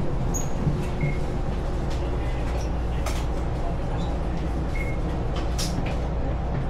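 Passenger train running: a steady low rumble, with a couple of faint knocks about three seconds in and again near the end.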